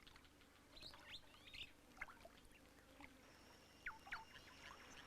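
Faint wild bird ambience: scattered short chirps and whistled calls from several birds, with a thin steady high tone coming in about three seconds in.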